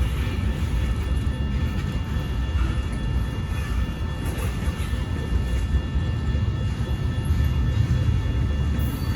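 Freight train rolling past at a grade crossing: a steady low rumble of wheels on rail, with several faint steady high tones above it.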